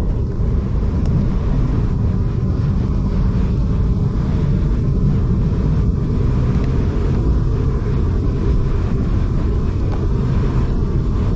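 V/Line passenger train running along the track: a steady, low rumble.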